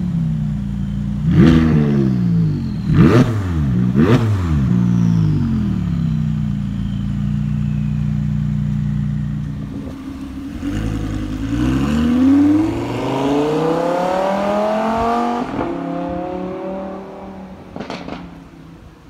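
McLaren 570S twin-turbo V8 blipped three times in quick succession, then settling to a steady idle. After that, a Lamborghini Huracán V10 accelerates away, its engine note climbing for several seconds and then fading into the distance.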